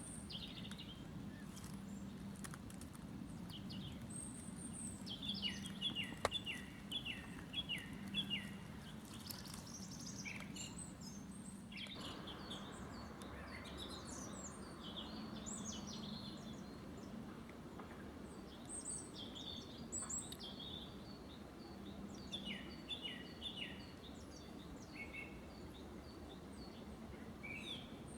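Several songbirds singing together in a forest: overlapping chirps and whistles, with runs of quick falling notes about five seconds in and again just past twenty seconds. A low steady hum runs beneath.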